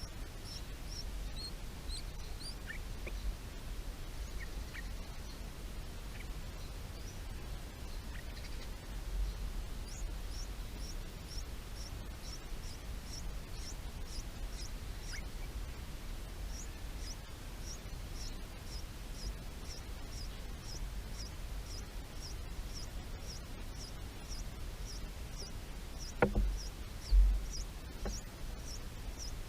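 A small bird giving short, high chirps over and over, about two a second, over a low rumble. Two thumps come near the end.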